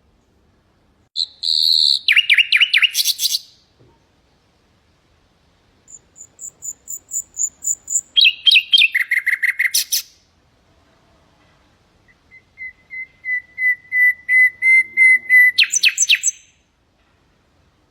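Common nightingale singing: three song phrases with pauses between them, each made of rapidly repeated notes. The last phrase is a long run of notes on one pitch that grow steadily louder before a quick closing flourish.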